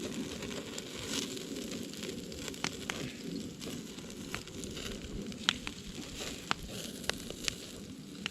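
Wood fire burning with a steady rush, crackling and throwing off sharp pops, about half a dozen of them in the second half.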